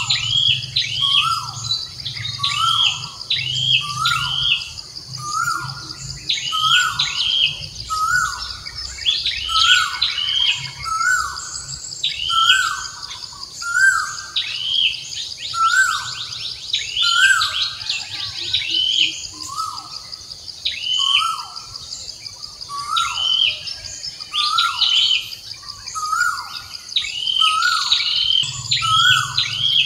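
Birds calling over and over, one short call about every second with quicker high chirps among them, over a steady high insect drone.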